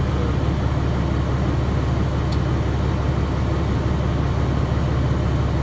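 Semi truck's Caterpillar C15 diesel engine running with a steady low drone, heard from inside the cab.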